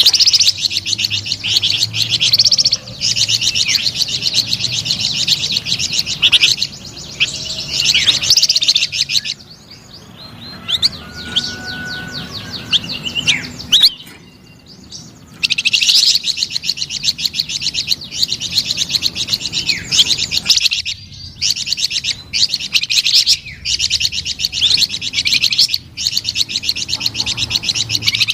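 Flamboyan songbird singing vigorously: long runs of very fast, high chattering notes, with a lull of a few seconds midway filled by scattered single chirps, then the rapid song resumes.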